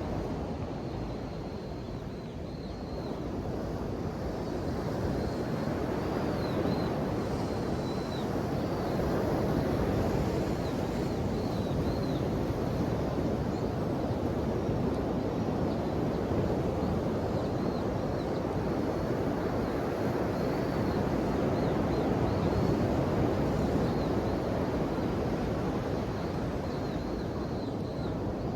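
Ocean waves washing on the shore in a steady rush that swells a few seconds in, with faint short high chirps over it.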